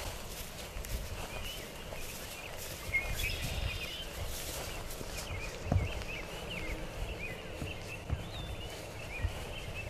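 Birds chirping in many short, irregular calls over a steady low rumble, with a single thump about six seconds in.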